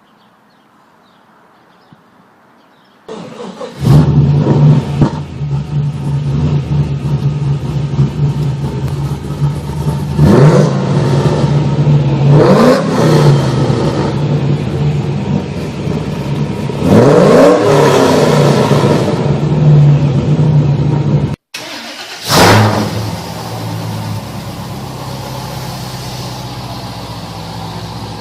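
A car engine starts about three seconds in, settles into a steady idle and is revved three times, each rev rising and falling back. After a sudden cut, an engine is blipped once and then idles steadily.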